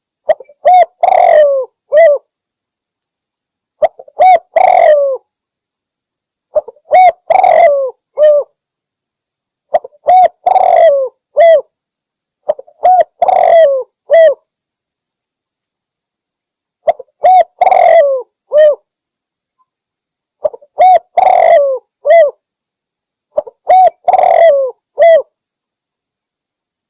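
Spotted dove (derkuku) cooing: a phrase of several low, hooting notes, repeated eight times at intervals of about three to four seconds, with silence between phrases. This is the bird's full territorial song, used as a lure call to draw other doves in.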